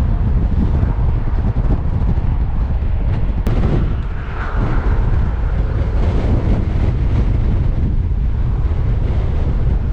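Strong wind buffeting the microphone in gusts, a loud, continuous low rumble.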